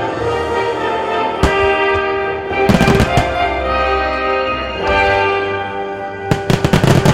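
Orchestral music with sustained tones, overlaid by firework shells bursting: a single bang about a second and a half in, a rapid volley around three seconds in, and another fast volley of bangs near the end.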